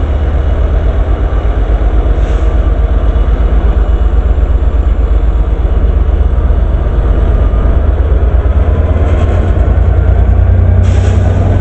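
Class 67 diesel locomotive's EMD two-stroke V12 engine, very noisy, with a deep pulsing note as it departs with its train. A short hiss near the end.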